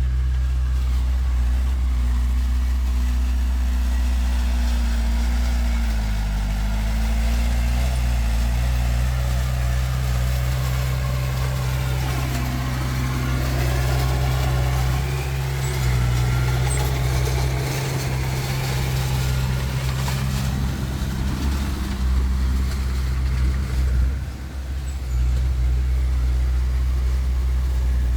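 Heavy diesel engines of earthmoving machinery running steadily with a deep low hum, the pitch shifting a few times as the load changes. The level dips briefly a little before the end.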